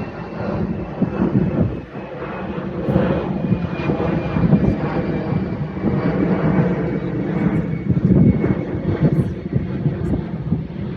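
Airbus A380's four Engine Alliance GP7200 turbofans at high thrust, a loud low rumble that swells and dips, with a faint high whine falling slightly in pitch.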